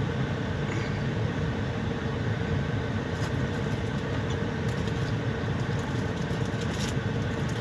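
Steady low hum of an idling semi-truck engine. From about three seconds in come crisp crunching clicks of a club cracker being chewed.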